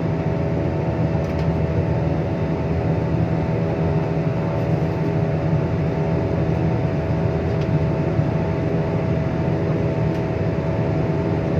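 Steady jet-airliner cabin noise: the engines' low rumble with a few steady whining tones above it, unchanging throughout.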